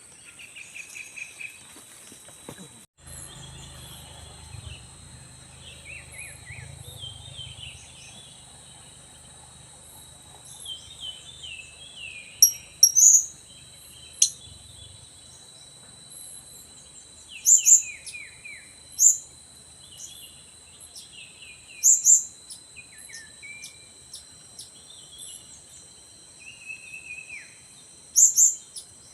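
Blue-crowned hanging parrots (serindit) giving sharp, very high, short chirps, loudest in spaced pairs and singles through the middle and near the end. Softer falling chirps and a steady high-pitched insect drone run underneath.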